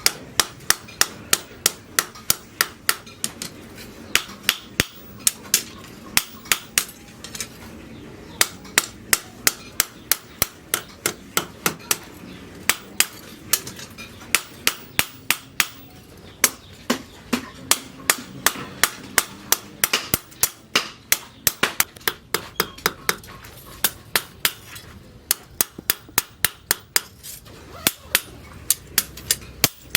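Blacksmith's hand hammer beating steel rebar on an anvil while forging a sickle blade: sharp, ringing blows at a steady two to three a second, broken by a few brief pauses.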